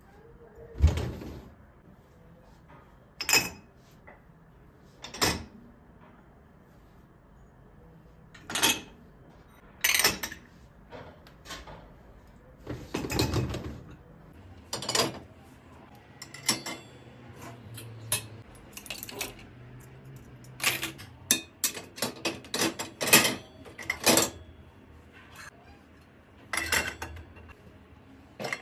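Dishes and cutlery being handled in a kitchen: a string of separate clinks and knocks at uneven intervals, with a quicker run of clicks about three-quarters of the way through.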